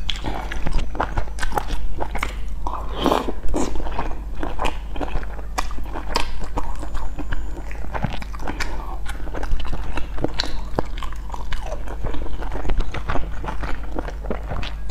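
A person chewing and smacking a mouthful of soft dumpling, with dense wet mouth clicks over a steady low hum.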